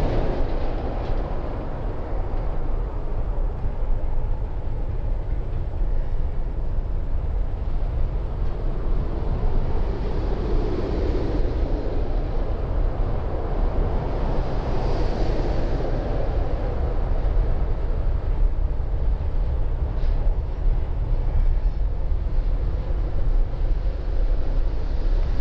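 Freight train cars rolling past with a steady rumble. A road vehicle passes close by at the start.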